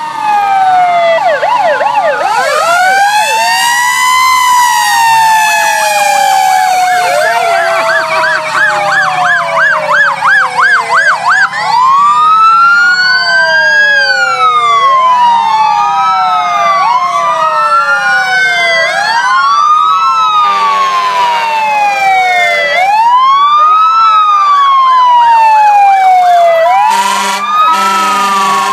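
Several emergency vehicle sirens sounding at once, loud. Overlapping wails rise and fall, a fast yelp warbles about eight to eleven seconds in, and then a wail keeps cycling about every two seconds. A steady low engine hum runs underneath.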